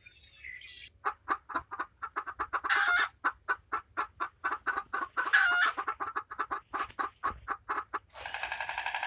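Chickens clucking in a fast, even run of short clucks, about four a second, with two louder, longer calls partway through. Music starts near the end.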